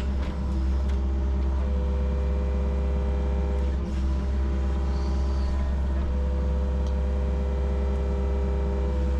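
Yanmar SV40 mini excavator's diesel engine running steadily under load, with a steady hydraulic whine that comes in about a second and a half in and dips briefly near four seconds as the arm and bucket work.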